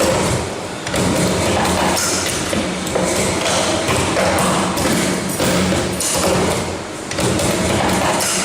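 Bucket-handle making machine running: repeated mechanical thuds and knocks over a steady hum.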